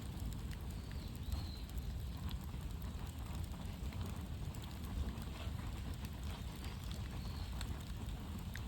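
Bonfire crackling with scattered small snaps over a steady low rumble.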